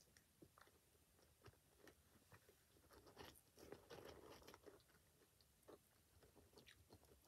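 Faint close-up chewing of food, with scattered small mouth clicks and a busier stretch of chewing about halfway through.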